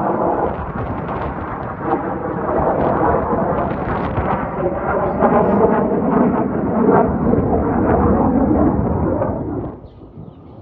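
Military fighter jets flying overhead: a loud, rumbling jet noise that drops away abruptly near the end.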